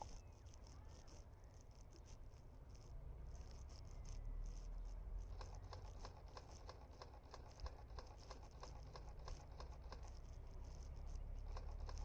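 A bird pecking and scratching at seed: a rapid, irregular run of small taps and clicks, thickest from about five seconds in, over a low steady rumble.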